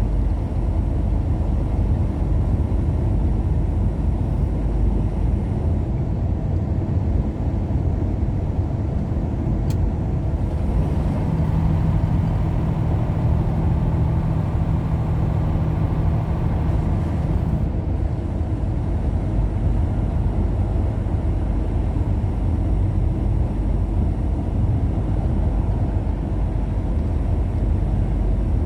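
Car driving on the road: steady low road and engine rumble. For several seconds in the middle, a louder hiss and a steady hum rise over it, then drop away.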